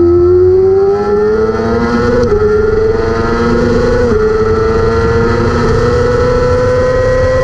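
600 cc superbike engine at high revs under hard acceleration. It rises in pitch, snaps through quick upshifts about two and four seconds in, then climbs steadily again.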